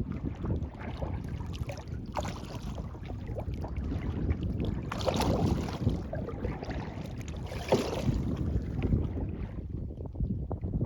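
Kayak paddle strokes through lake water: three splashy strokes a couple of seconds apart, over a low rumble of wind on the microphone.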